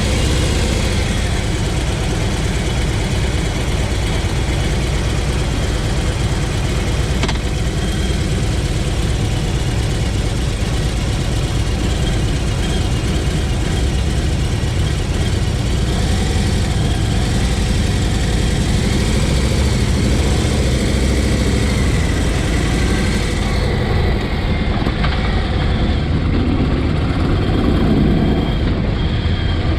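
Harley-Davidson Road Glide Special's V-twin engine running steadily, picked up by a camera mounted on the bike.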